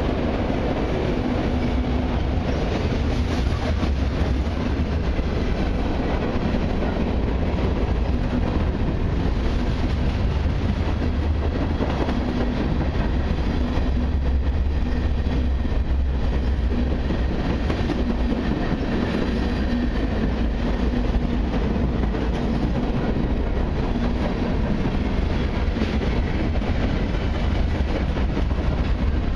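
Freight cars of a long mixed train rolling past: autoracks, gondolas and boxcars on steel wheels and rail, making a steady, unbroken low noise.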